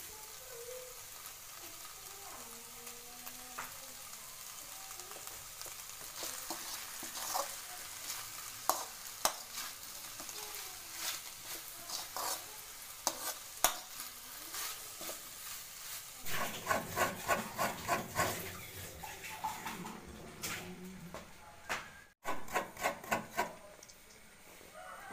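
Sliced ivy gourd sizzling in an aluminium kadai while a perforated metal spoon stirs it, with scattered sharp clinks and scrapes of the spoon against the pan. About two thirds of the way through comes a rapid run of scraping for a few seconds, and after a short break near the end another quick run of scraping.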